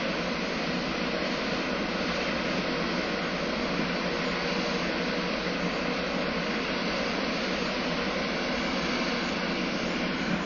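Steady machinery hum of a large car ferry, its engines and ventilation running with a constant drone and faint steady tones.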